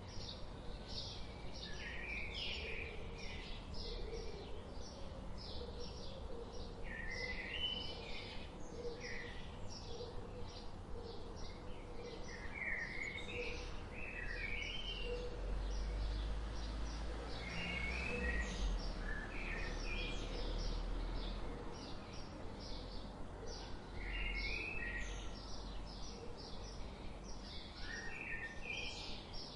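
Several songbirds singing together: quick high chirps packed closely throughout, and one bird repeating a short, lower, stepped phrase every five seconds or so. A low rumble comes in about halfway through and lasts several seconds.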